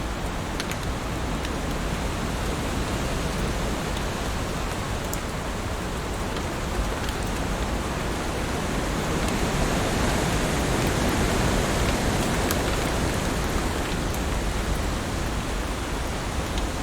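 Heavy rain falling, a steady dense hiss with scattered sharp ticks of single drops. It swells a little louder about two-thirds of the way in, then eases back.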